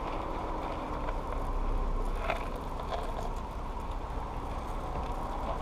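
Car rolling slowly, heard from inside the cabin: a steady low rumble of engine and tyres, with a couple of faint clicks about two and three seconds in.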